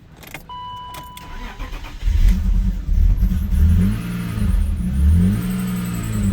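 A 1998 BMW 528i's 2.8-litre inline-six is started: a click and a short electronic beep, then about two seconds in the engine catches and runs, its revs rising and falling a few times before settling. The car has a rough idle.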